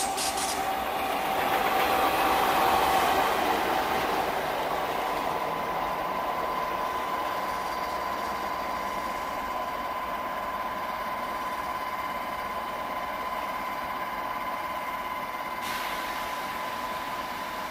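Electric trains passing at speed: the rushing rail and wheel noise of a double-deck push-pull suburban train swells to its loudest about two seconds in, then fades slowly into a steady hiss. A thin steady high tone sounds through it from about four seconds in.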